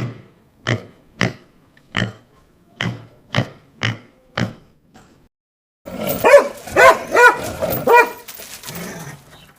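A dog barking, eight short barks about half a second apart. After a short pause comes a quick run of higher, pitched calls that rise and fall, then a faint tail.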